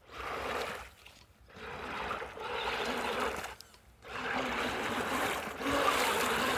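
Redcat Everest 10 RC mega truck driven in three throttle bursts, its tires churning and splashing through mud and water. It is stuck on something and trying to pull free.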